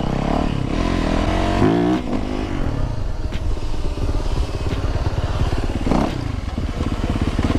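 Single-cylinder motorcycle engine running at low revs close to the microphone, with a short rise in revs about two seconds in.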